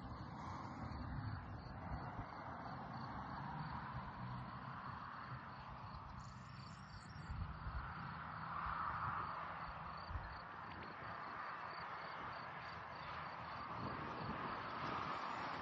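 Field insects chirping in a rapid, even pulse, over low wind rumble and rustling.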